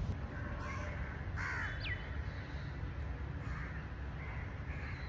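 Birds calling in the trees: a harsh caw about a second and a half in, followed by a sharp falling whistle, with the whistle heard again at the end and faint chirps between. A low steady rumble runs underneath.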